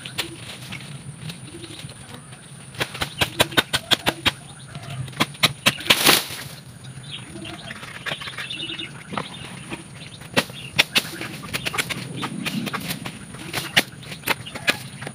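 Leafy branches and twigs being pulled and broken off, with a series of sharp snaps and cracks and a short burst of leaf rustling about six seconds in. Birds chirp faintly.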